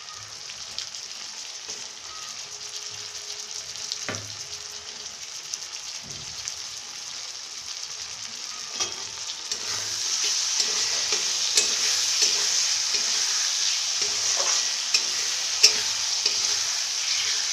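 Chopped tomatoes frying in hot mustard oil with onion, garlic and ginger in a metal kadai, sizzling with a steady hiss that grows louder about ten seconds in. A metal spatula stirs the pan, scraping and clicking against it.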